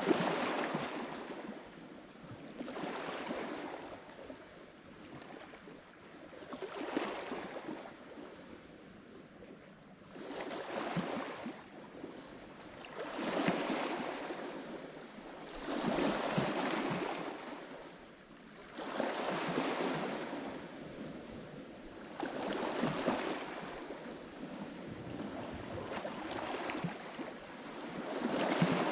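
Lake Michigan waves breaking on the shore, one after another every three seconds or so, each wash swelling up and falling away.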